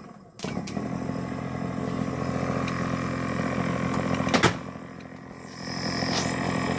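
Viair 440C 12-volt air compressor starting about half a second in and running with a steady motor hum; a sharp click a few seconds later, then the sound dips briefly and picks back up. It builds no pressure, which the owner takes for a compressor that won't do anything.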